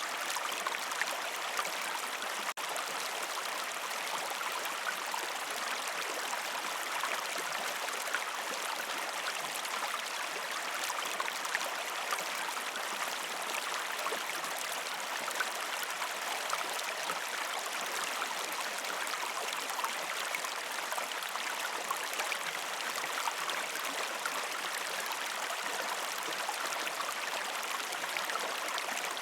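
Shallow river stream flowing steadily over rocks: a continuous even rush of water with small splashes, and a momentary dip about two and a half seconds in.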